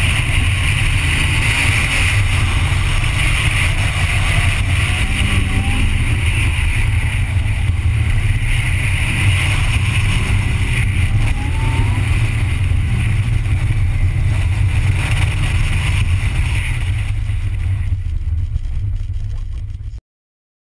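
Car engine and road noise recorded on board during an autocross run: a steady low rumble with a hiss of wind on the microphone over it, cutting off abruptly near the end.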